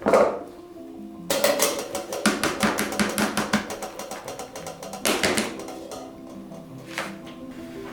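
Kitchen work over soft background music: a sharp knock at the start, then a quick run of light, rapid knocks lasting about two and a half seconds, another short burst about five seconds in and a single click near the end.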